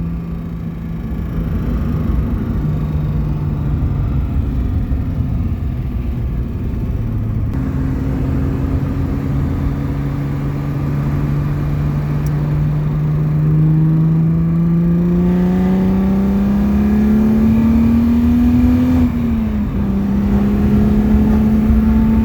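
Alfa Romeo GTV6's 2.5-litre Busso V6 engine under way. It holds a steady note, drops in pitch at a gear change about seven seconds in, then climbs steadily as the car accelerates before dropping again at another upshift near the end.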